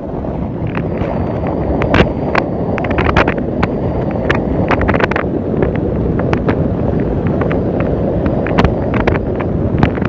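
Steady low rumble of a BMW 520 on the move, with wind buffeting the microphone and many scattered sharp clicks.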